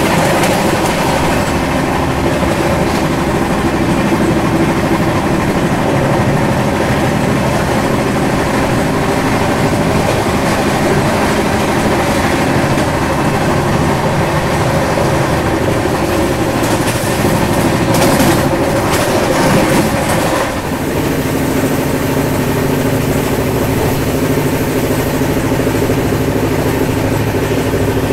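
Steady running noise of an Indian express train at speed, heard from inside the passenger coach: wheels on the rails and the coach rattling and humming. About twenty seconds in, the hiss drops and a lower hum comes forward.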